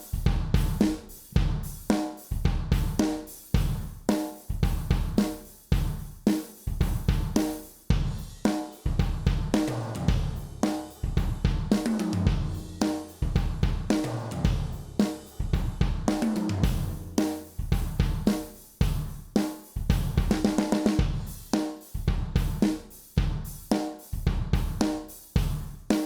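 A sampled acoustic drum kit played back by BFD3 drum software, running a steady groove of kick, snare, hi-hat and cymbals. Several short fills of descending tom hits come around the middle.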